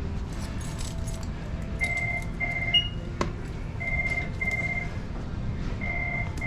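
An electronic beeper sounding pairs of short, identical beeps about every two seconds, over a steady low hum. A single higher beep and a sharp click come about halfway through.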